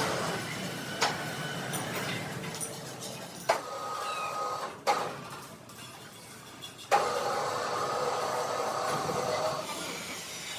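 Workshop noise: about five sharp knocks spread over the first seven seconds, then from about seven seconds in a machine running with a steady tone, dying away shortly before the end.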